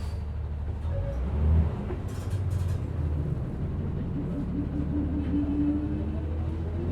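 City bus in motion, heard from inside: steady low engine and road rumble, with a louder jolt about a second and a half in and some brief rattling. From about four seconds in, a whine slowly rises in pitch as the bus picks up speed.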